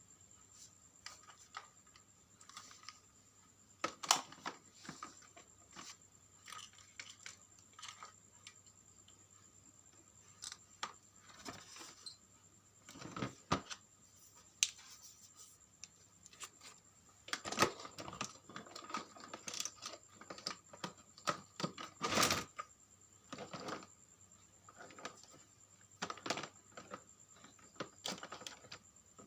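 Irregular clicks, taps and small knocks of hands handling parts while working on a portable vacuum cleaner's battery. A faint steady high-pitched tone runs underneath.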